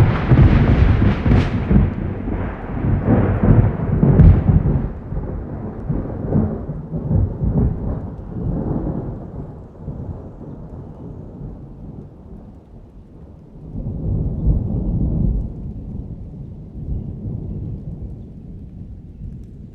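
Thunder: a loud clap that starts abruptly out of silence and rumbles on, fading over about ten seconds, then a second swell of rumbling about fourteen seconds in that dies away.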